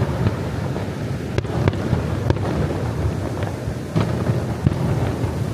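Fireworks bursting: several sharp bangs, a few seconds apart, over a continuous low rumble.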